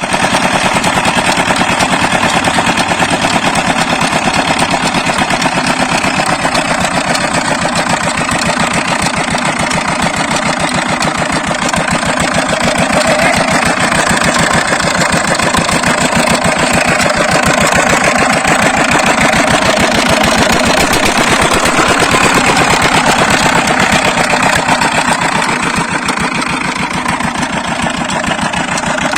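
Old diesel water-pump engine running steadily at idle, its firing strokes giving a fast, even knocking beat.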